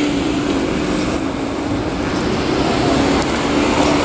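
Steady street traffic noise, with a low engine hum held at one pitch underneath.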